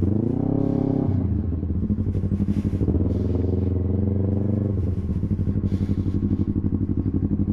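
Yamaha YZF-R3's parallel-twin engine through an Akrapovic full exhaust: the revs climb right away and drop about a second in, climb again and hold for a couple of seconds, then fall back to a low, pulsing idle.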